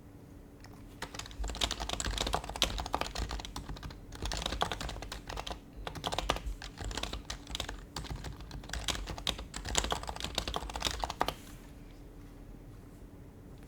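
Typing on an HHKB Professional HYBRID Type-S keyboard, its Topre switches giving quick runs of soft keystrokes with brief pauses between bursts. The typing starts about a second in and stops a couple of seconds before the end.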